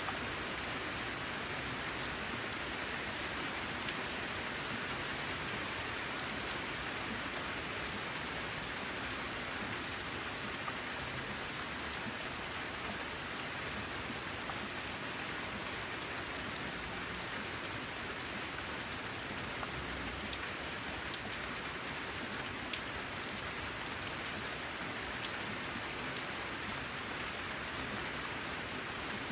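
Steady rain falling in an even hiss, with single drops ticking sharply now and then.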